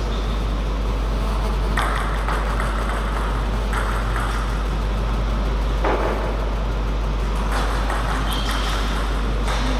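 Table tennis ball knocking off bats and table, a sharp knock every couple of seconds over a steady low hum.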